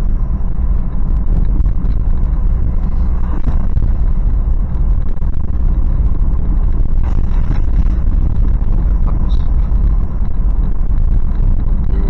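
Steady low rumble of a Toyota 4Runner's 4.0-litre V6 and tyre noise heard from inside the cabin while the truck cruises.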